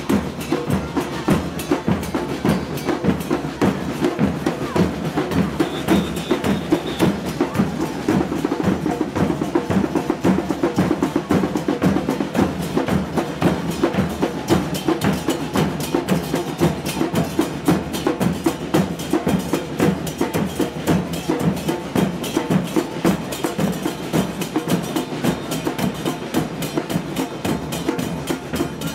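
Murga percussion band drumming a fast, steady carnival rhythm on bass drums and cymbals.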